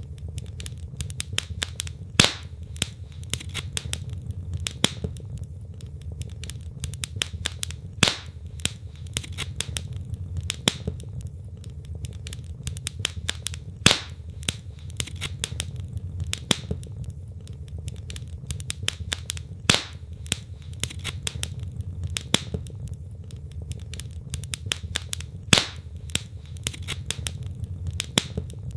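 Wood logs burning in a fireplace: steady crackling and popping over a low rumble of flame, with a louder pop about every six seconds.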